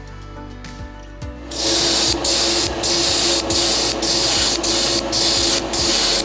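Loud spray hissing that starts about a second and a half in, broken by brief cut-offs roughly twice a second, over background music.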